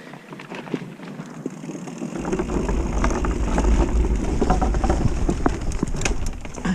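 Mountain bike rolling across a wooden-plank suspension bridge, its tyres rattling and clicking over the loose planks. A heavy rumble of wind on the microphone sets in about two seconds in.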